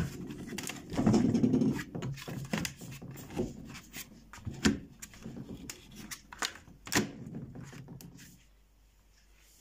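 Knocks, clicks and rubbing as the hingeless door of a homemade faux fireplace is handled, with a few sharp knocks that stop about a second before the end.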